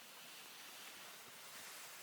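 Faint, steady hiss with no distinct events: close to near silence.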